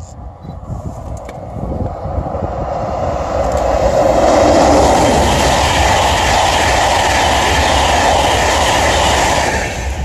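InterCity 225 express, a Class 91 electric locomotive with Mk4 coaches and driving van trailer, passing at speed: a rushing rail noise builds over the first few seconds, stays loud while the coaches go by, and falls away near the end.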